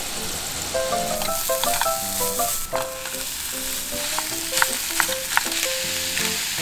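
Chopped kimchi sizzling as it is stir-fried in a pan, with a steady hiss and scattered sharp clicks of the utensil against the pan. Light background music plays over it.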